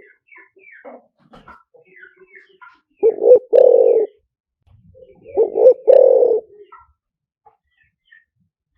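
Spotted dove cooing, twice. Each phrase is a short note or two followed by a longer coo, the phrases a couple of seconds apart. It is a decoy call of the kind used to lure wild spotted doves.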